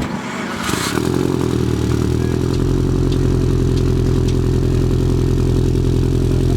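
An engine running at a steady idle, loud and close, settling in about a second in, with no revving.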